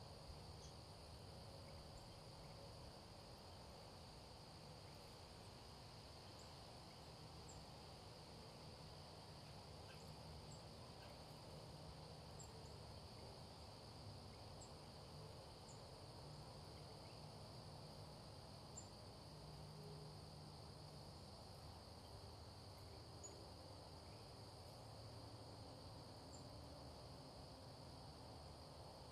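Faint, steady chorus of crickets, an unbroken high trill, over a low background rumble.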